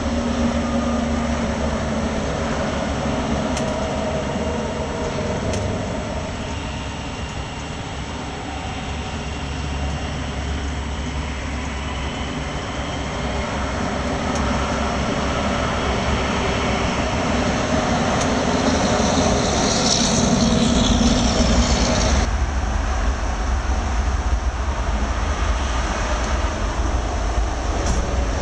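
Norfolk Southern diesel freight locomotives passing with their engines running, followed by covered hopper cars rolling over the rails. About 22 seconds in, the sound changes abruptly to the steady rumble of freight cars rolling past close by.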